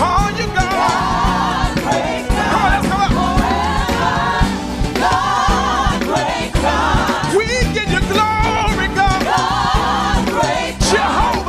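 Gospel worship music: a choir of voices singing with vibrato over a live band's steady bass and drums.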